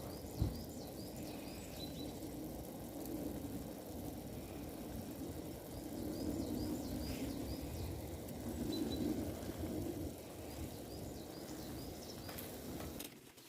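Outdoor ambience: small birds chirping in short repeated calls over a steady rushing noise that swells every few seconds, with a single knock about half a second in.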